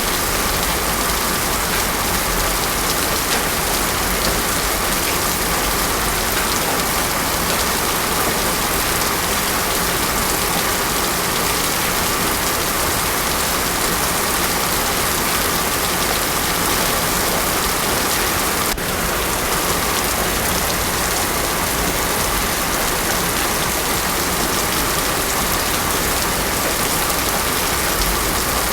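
Steady heavy rain pouring onto a road surface, with no thunder. There is a single brief click with a small dip in level about two-thirds of the way through.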